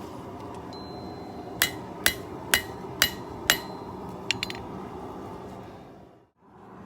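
Hand hammer striking hot steel on an anvil while a knife blade is forged: five ringing blows about two a second, then a few light taps, over a steady rushing background.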